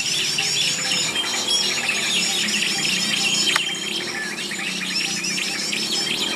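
Small songbirds chirping and twittering densely and without a break, many calls overlapping, with one sharp click about three and a half seconds in.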